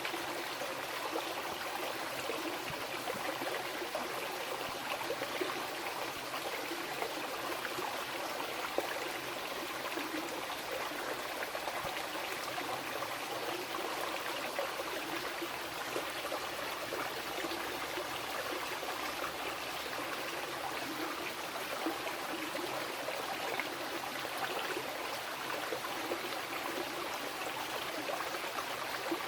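Fast-flowing mountain river rushing and babbling over rocks, a steady, even wash with fine splashing and no change.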